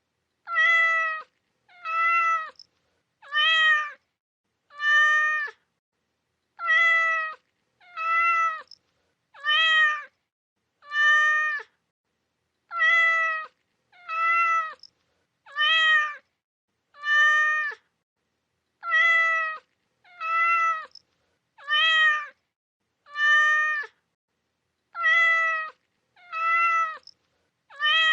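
A cat meowing over and over: short, pitched meows in sets of four about a second and a half apart, with a longer pause between sets. The sets repeat in an identical pattern, like a looped recording.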